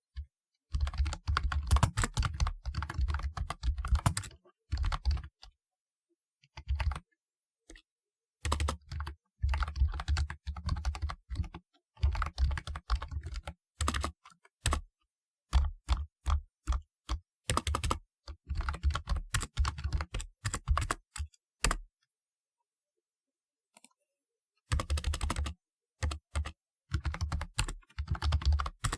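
Typing on a typewriter-style keyboard: fast runs of key clicks in bursts with short breaks, and a pause of a few seconds about three-quarters of the way through.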